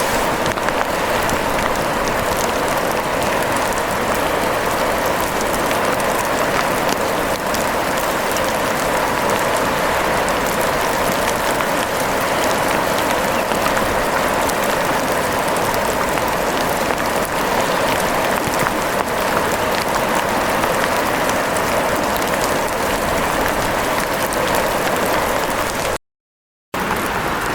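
Steady rain falling, an even hiss with fine drop patter. It cuts out to silence for under a second near the end.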